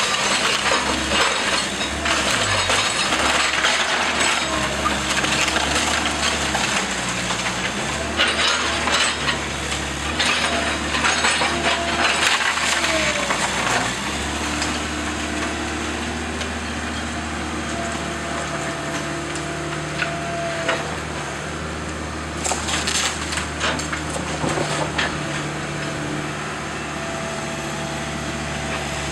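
Wooden house framing being crushed and splintered in demolition: dense cracking and snapping for the first half, easing after about halfway, with a burst of cracking again near the end. A heavy machine's engine runs steadily underneath.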